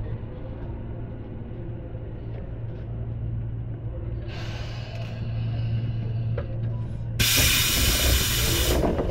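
Inside a Tobu 10030 series electric train: a steady low hum from the running gear, a short hiss of air about four seconds in, then a loud burst of compressed-air hiss about seven seconds in lasting a second and a half, typical of a train's air system as it comes to a stop.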